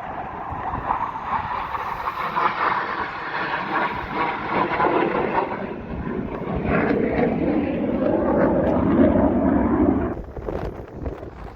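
USAF Thunderbirds F-16 jet noise as the jets fly past: a loud rushing roar whose pitch slides steadily lower, then drops away sharply about ten seconds in.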